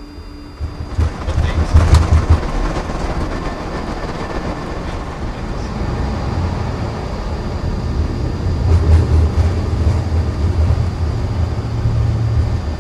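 Airbus A330 on its takeoff roll, heard from the cockpit: the engines come up to takeoff thrust about a second in, then a loud, steady low rumble with knocks and rattles from the wheels rolling down the runway.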